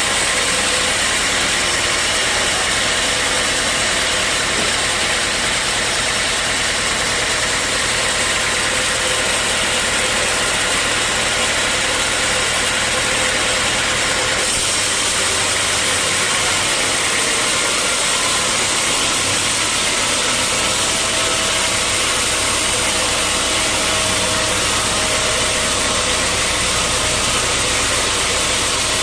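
Sawmill machinery running steadily: a loud, even engine-like noise with a strong hiss and a low hum. Its character changes abruptly about halfway through.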